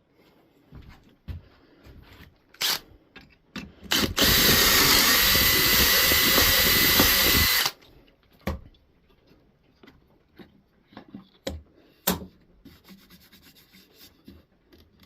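Power drill boring a dowel hole in a board through a dowel jig, running steadily for about three and a half seconds and then stopping. Knocks and clicks of the jig and wood being handled come before and after it.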